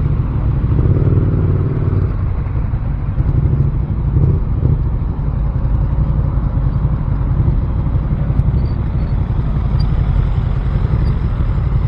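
Motorcycle engine running steadily, a loud low rumble with rapid firing pulses and slight changes in pitch around the start and about four seconds in.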